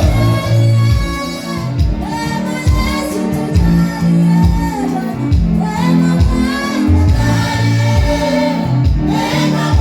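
Live gospel worship music: voices singing together over a band, with low bass notes changing every second or so and a regular drum beat.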